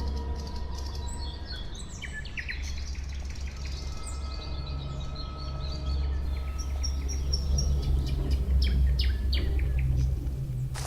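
Songbirds chirping and calling, many short notes that become busier from about two seconds in, over a low steady drone.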